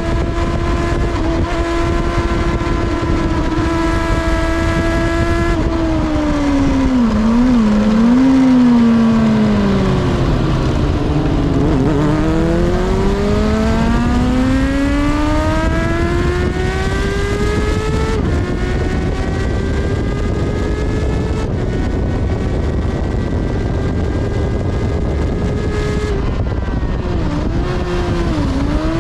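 Kawasaki ZXR400's inline-four engine at high revs, then braking hard into a corner about six seconds in with quick throttle-blipped downshifts and falling revs. From around eleven seconds it pulls back up through the rev range, with an upshift about eighteen seconds in and another set of blipped downshifts near the end. Heavy wind rush runs underneath throughout.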